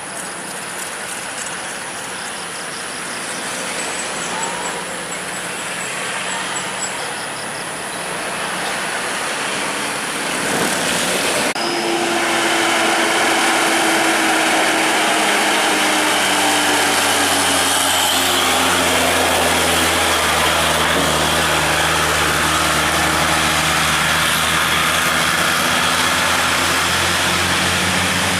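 Heavy diesel truck engine approaching and running close by, growing louder over the first half, then a strong steady engine note whose higher whine slowly drops in pitch.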